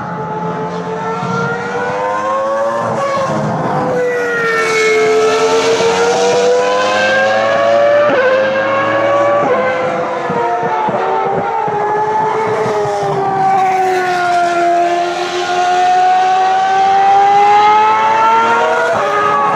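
Several Ferrari racing cars' engines at high revs on track, their pitches climbing and falling as they accelerate and change gear, with a few sudden drops in pitch.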